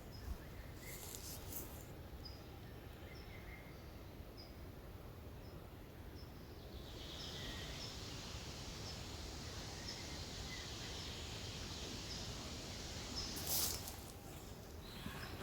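Faint forest ambience: a small bird repeats short high chirps about once a second. About halfway in, a steady high hiss joins it, and there is a brief rustle near the end.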